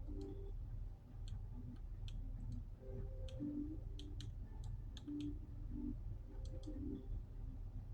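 Irregular sharp clicks, about fifteen of them, scattered over a steady low rumble.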